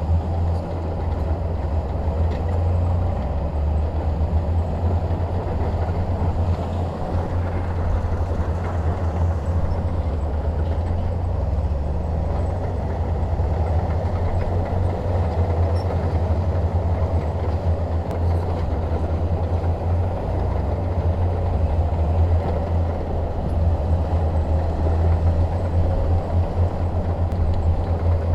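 Diesel engine of a Shantui DH17 bulldozer running steadily, a continuous low-pitched drone.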